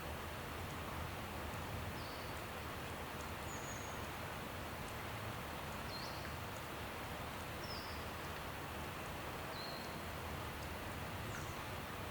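Outdoor nature ambience: a steady rushing background, with a bird giving short, high chirps about every couple of seconds, six in all.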